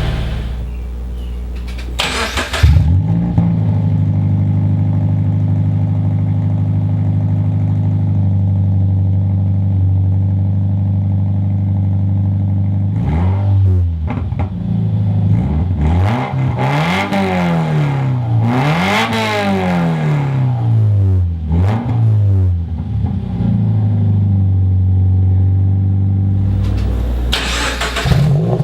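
2013 Scion FR-S's 2.0-litre flat-four through a Corsa performance exhaust: it starts with a loud bark about two seconds in, idles high and then settles lower, and is revved several times in quick succession from the middle of the clip before dropping back to idle.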